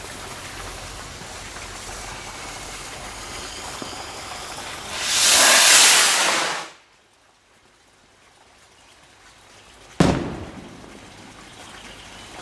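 Firework rocket launching with a loud hiss lasting under two seconds, then a single sharp bang about three seconds later as it bursts.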